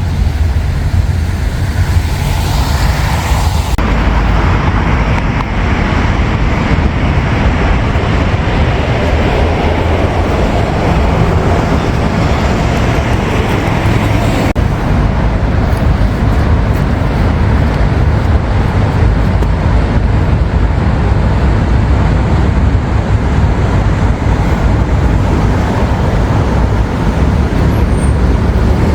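City road traffic on a bridge: a steady noise of passing vehicles with a deep, constant rumble. The higher hiss drops away abruptly about four seconds in.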